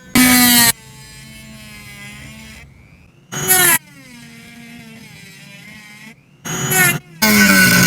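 Handheld electric power tool on metal, triggered in four short loud bursts, its motor whining and slowly running down between them.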